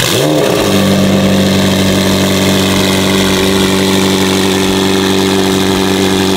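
Supercar engine idling steadily at a constant, even pitch.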